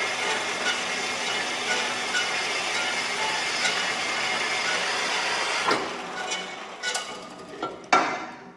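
A steady mechanical noise, then several separate knocks, with one louder clank about eight seconds in before the sound dies away.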